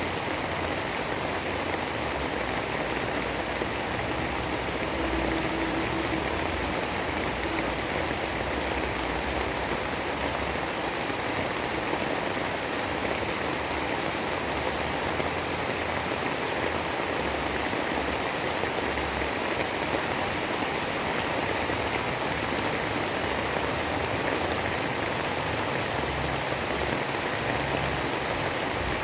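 Steady, unbroken rain, a dense even hiss with no distinct drops or thunder.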